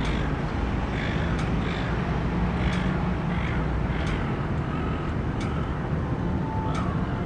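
Steady city traffic rumble, with a run of short bird calls repeating about once or twice a second over it.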